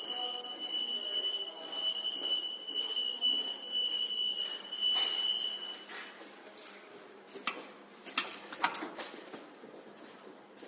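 A steady, high-pitched single-tone whine, like an electronic alarm or beeper, sounds over background bustle and cuts off about six seconds in. A few sharp clicks or knocks follow.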